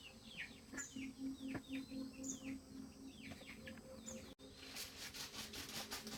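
Birds calling with quick, repeated falling chirps over a faint low pulsing tone. After a cut about four seconds in, clicking and rustling take over.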